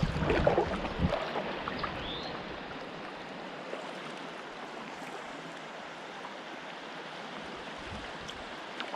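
Steady rush of river water running over a rocky shoal, with a few low thumps in the first second.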